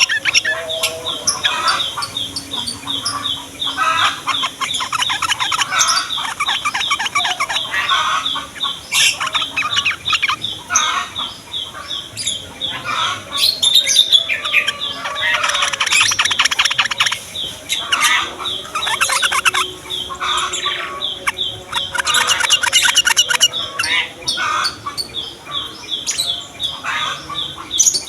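Yellow-vented bulbuls (trucukan) calling together: a steady run of short high chips, about three a second, broken by bursts of fast, babbling chatter.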